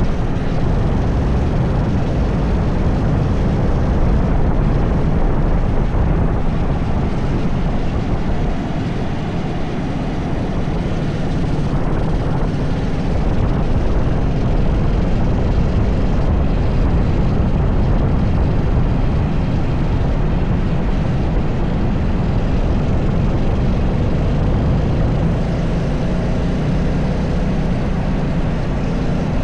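80cc racing kart engine running continuously at speed, loud and steady, with a dense rushing noise strongest in the low end.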